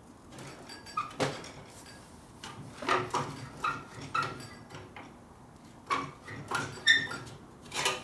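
Irregular metallic clanks and clinks, some ringing briefly, as a steel tool works inside the end of a motorcycle exhaust pipe, stretching it out oval.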